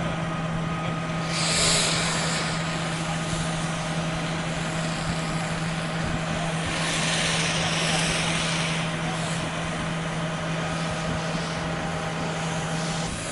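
Fire truck engine running steadily with a constant low drone. Two swells of hissing rise over it, about a second and a half in and again around seven seconds in.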